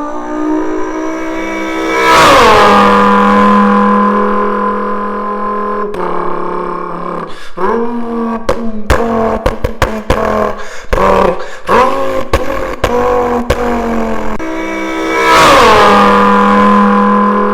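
A man vocally imitating a Lamborghini Huracan STO engine. It starts with a steady idle-like drone and revs sharply about two seconds in, holding the high note. Through the middle it breaks into fast, choppy stutters like gear shifts and crackles, then revs sharply again near the end.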